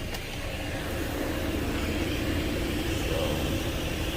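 Car running and creeping forward, heard from inside the cabin as a steady low rumble that grows a little louder in the first second or so.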